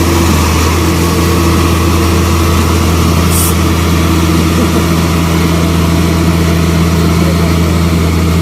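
Heavy construction machine's diesel engine running steadily at a low drone, its note shifting slightly about a second in, with a brief hiss about three seconds in.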